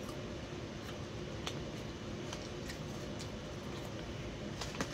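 A person chewing a mouthful of fried chicken nugget, with a few short, soft mouth clicks over a steady low hum.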